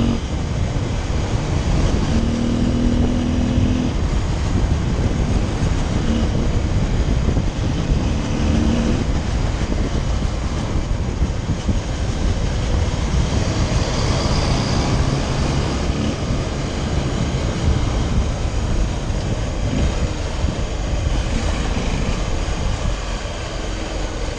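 Motorcycle being ridden, its engine note under a heavy rush of wind on the microphone; the engine tone comes through most clearly in the first few seconds and again about eight seconds in.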